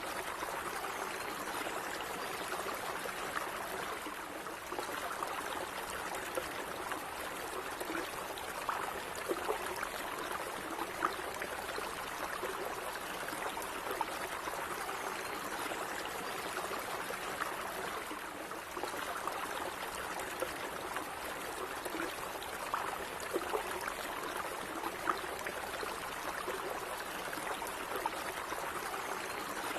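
A stream of running water flowing and trickling steadily, with small splashes and gurgles scattered through it.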